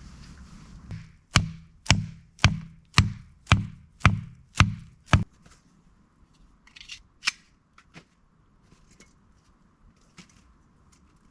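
Eight hard, evenly spaced strikes, about two a second, each with a short low ring, then a few lighter knocks.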